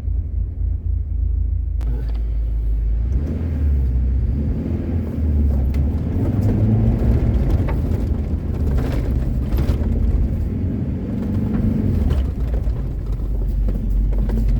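Car engine running under load as it climbs a rough track, a low rumble that rises and falls, with scattered knocks from the vehicle jolting over the rough ground.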